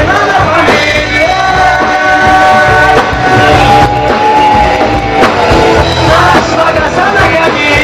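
Rock song with loud band backing and long held sung or lead notes.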